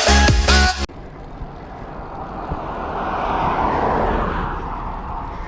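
Electronic background music cuts off about a second in; then a motor vehicle passes on the road, its noise swelling to a peak and fading away.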